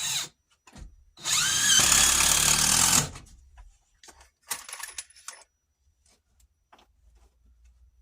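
Power drill driving 3.5-inch decking screws through a wall sill into the rim joist. A brief burst comes first, then a run of about two seconds with the motor's pitch shifting as the screw goes in, and a shorter burst about halfway through.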